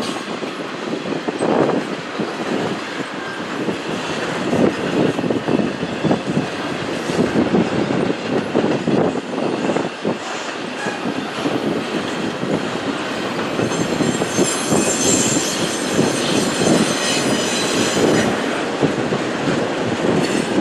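Cars of a long intermodal freight train rolling past, steel wheels clattering over the rails in a dense, irregular rhythm. A high wheel squeal rises over the clatter about two-thirds of the way through.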